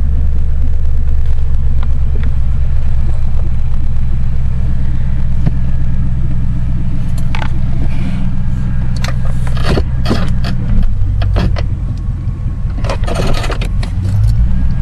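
1999 Lincoln Town Car's 4.6-litre V8 idling steadily with a deep, loud exhaust note; the car has an exhaust leak. Scrapes and clicks come in over the second half.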